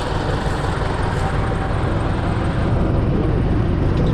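UTB U650 tractor's four-cylinder diesel engine running steadily at idle, a low even rumble that grows a little louder about three seconds in.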